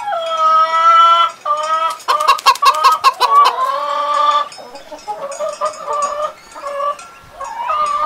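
Hens clucking and cackling: a long call at the start, a rapid run of clucks about two seconds in that ends in a drawn-out call, then shorter calls.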